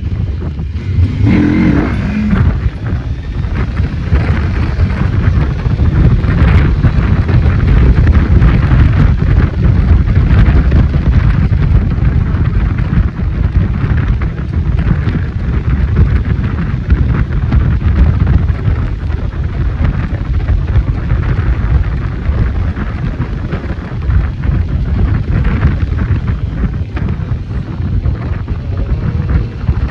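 Cyclone RX401 motorcycle running under way, with the engine and heavy wind rush on the microphone.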